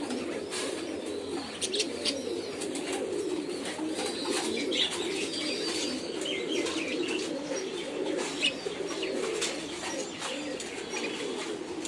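Many pigeons cooing over one another in a low, continuous chorus, with scattered higher chirps and short clicks above it.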